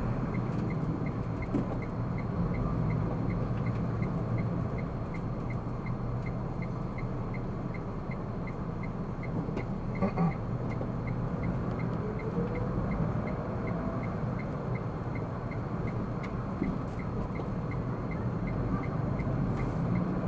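A car being driven, its steady engine and road noise heard from inside the cabin, with the turn-signal indicator ticking evenly about two to three times a second.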